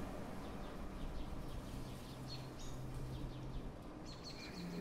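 Small birds chirping in runs of short, high notes over a steady background of outdoor ambient noise.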